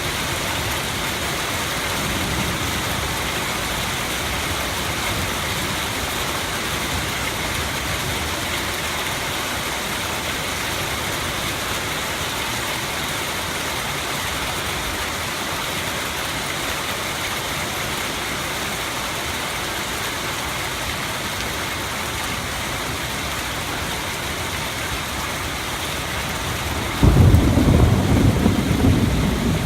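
Heavy rain falling steadily with an even hiss, then thunder breaking in suddenly near the end with a loud low rumble.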